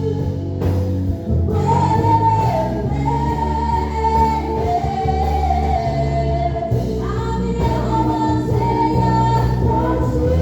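Gospel praise music: a voice singing a slow melody in long held notes over sustained instrumental accompaniment.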